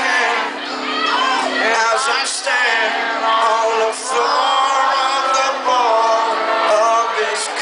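Live band music in a stretch without lyrics, with sliding melodic lines over sustained low notes.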